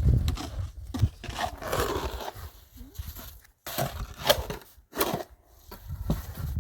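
Irregular crunching and rustling handling noises with a few sharp knocks, about a second in and again near four and five seconds, and short near-quiet gaps between them.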